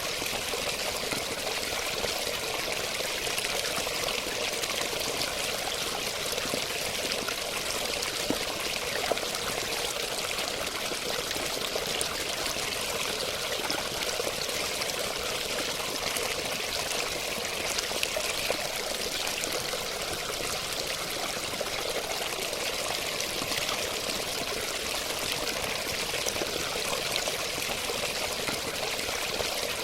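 Running water flowing and trickling steadily, an even splashing rush with no pauses.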